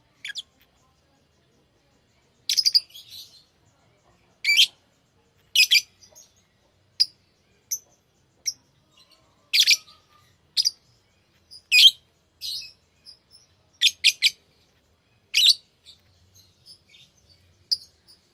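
Lovebirds giving short, sharp, high chirps, singly or in quick pairs, with pauses of about a second between them.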